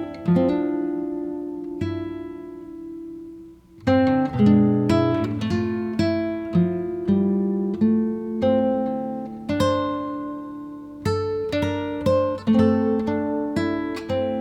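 Background music of acoustic guitar, plucked notes and chords, which ring out long near the start and then move into a quicker run of notes about four seconds in.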